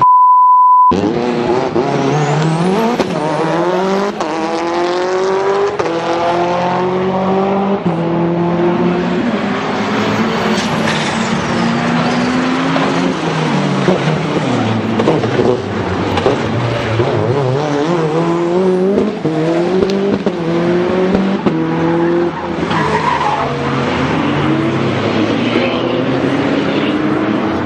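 A short steady beep, then a Lancia Delta Integrale's 2.0-litre turbocharged inline-four driven hard, its pitch climbing through the revs and dropping back again and again as it changes gear, with tyre squeal as the car slides.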